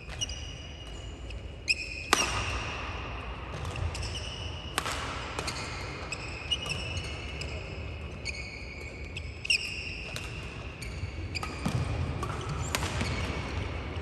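Badminton rally: sharp racket hits on the shuttlecock every second or few, with the players' shoes squeaking on the court floor between them.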